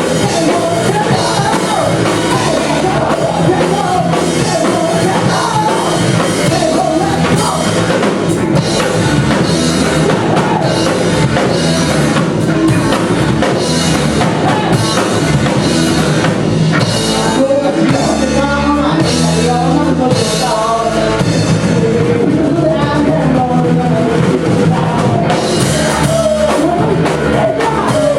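Rock band playing live: drum kit and amplified instruments with a singing voice, loud and steady.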